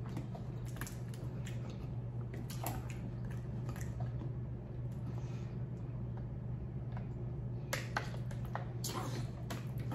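Close-up chewing and wet mouth sounds with scattered soft clicks, then drinking from a plastic water bottle, with a cluster of clicks and swallows near the end. A steady low hum runs underneath.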